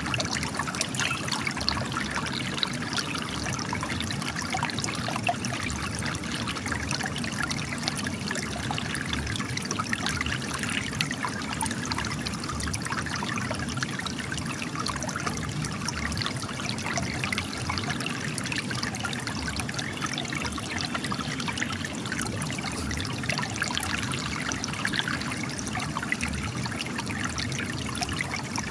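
Spring water trickling and splashing steadily from cracks in rocks, a continuous patter of many small splashes.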